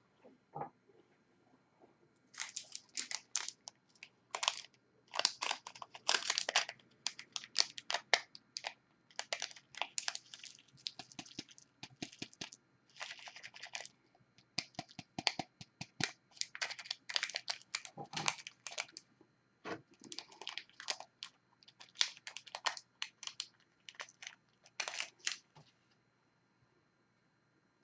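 Quick bursts of small sharp clicks and crinkles from diamond-painting work: resin drills and the plastic-covered canvas being handled and pressed, in runs with short pauses between them.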